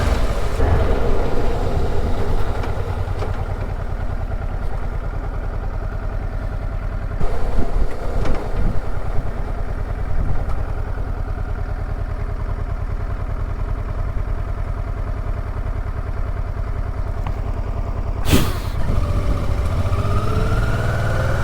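Honda Deauville V-twin motorcycle engine running steadily on a rough road. There are a few knocks about 7 to 9 seconds in and one sharp crack at about 18 seconds. Near the end the engine pitch rises as the bike accelerates.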